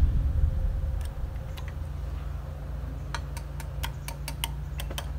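Music fading out, then a low steady hum with a quick run of sharp clicks in the second half.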